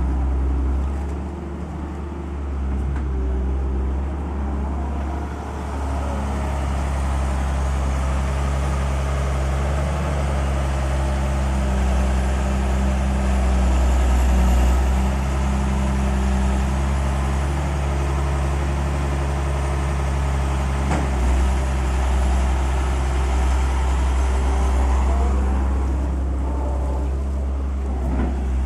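Heavy engine running steadily with a low rumble and hum, swelling a little about halfway through.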